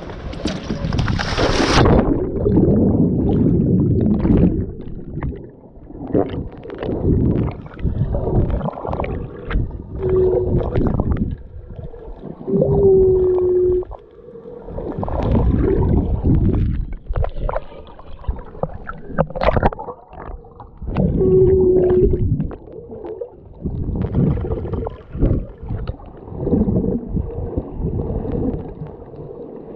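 Underwater sound during snorkeling: dull, low rushing and bubbling water that comes in irregular surges. About two seconds in, a brighter splashing hiss cuts off as the sound turns muffled, and there are a few short steady hums.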